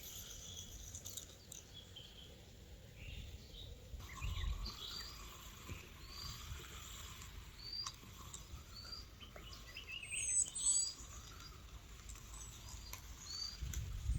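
Birds singing: a short rising chirp repeated roughly once a second, with a higher whistled phrase about ten seconds in, over faint outdoor background noise.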